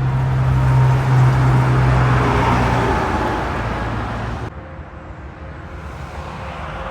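A heavy truck passing close by, its engine drone and tyre roar loudest a second or two in. About four and a half seconds in the sound cuts off abruptly to quieter, steady traffic noise.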